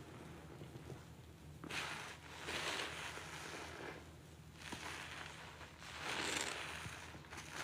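A sudsy sponge soaked with pine paste cleaner being squeezed several times, liquid squelching and streaming out in swelling bursts.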